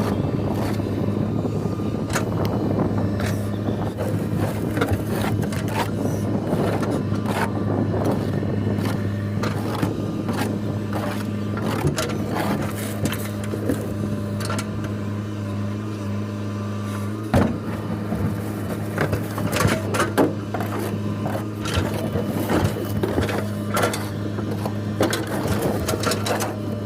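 JCB 3DX backhoe loader's diesel engine running steadily under work, with scattered metallic clanks and knocks, more of them in the second half; the engine note drops slightly about seventeen seconds in.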